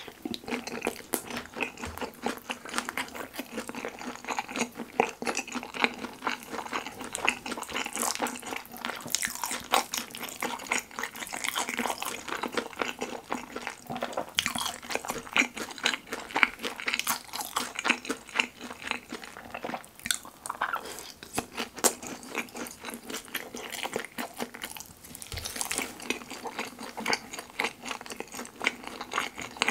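Close-miked chewing of kimchi pizza tangsuyuk (battered fried pork with kimchi, sauce and melted cheese), a steady run of small mouth clicks and smacks.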